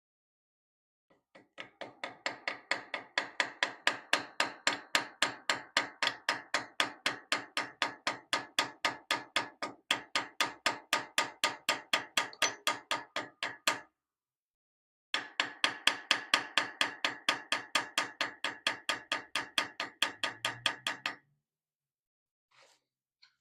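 Small hammer tapping metal at a steady rate of about four light ringing taps a second, in two long runs with a short pause between, driving brass into a dovetail groove in a wrought iron cross-guard to set an inlay.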